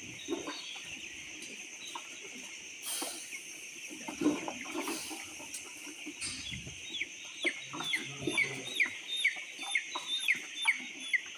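A flock of two-week-old chicks peeping, with a few knocks in the first half. In the second half a rapid run of loud, falling peeps stands out above the rest.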